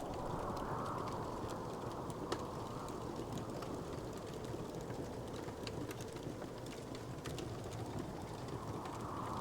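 Wood fire crackling with scattered small pops and ticks, one sharper snap a little over two seconds in, over a steady low rushing that swells gently near the start and again near the end.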